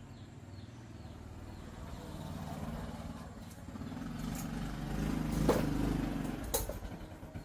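Motorcycle engine running, building louder toward the middle before easing off, with a couple of sharp clicks a little past halfway.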